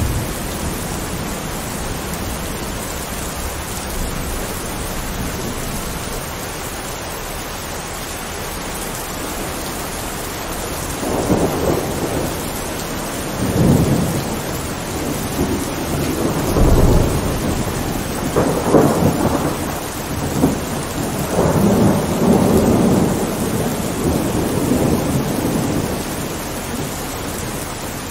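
Steady heavy rain, with thunder rumbling in several rolls from about ten seconds in until near the end.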